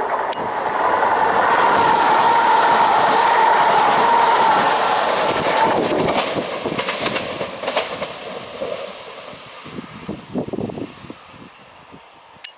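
Passenger train running through the station: a loud steady rush with a whine for the first half, then the wheels click over the rails again and again as the sound fades away.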